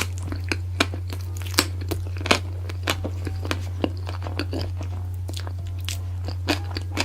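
A person eating close to the microphone: many sharp crunchy bites and chewing sounds, over a steady low hum.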